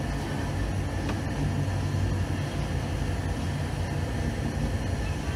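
Steady running noise of a 1980s passenger train heard from on board, a low hum and rumble from the wheels and running gear on the track.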